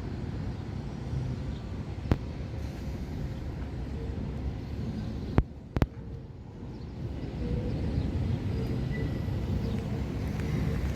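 City transit buses' engines running at a bus terminal, a steady low rumble with a few sharp clicks; about seven seconds in, the engine sound grows louder as a bus draws near or pulls out.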